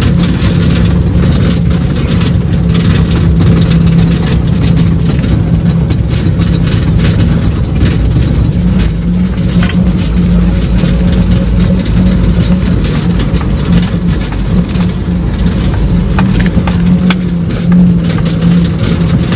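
Truck being driven, heard from inside the cab. The engine and road rumble drone steadily at an even pitch, with frequent small knocks and rattles from the cab as it goes over an uneven surface.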